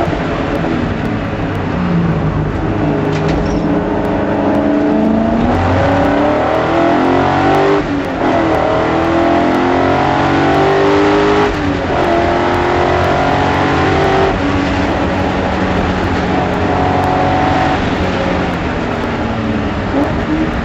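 BMW S62 V8 in an E30 race car, heard from on board under hard acceleration. The engine note drops briefly near the start, then rises through the gears with quick upshifts about 8 and 12 seconds in, and runs at high, fairly steady revs in the second half.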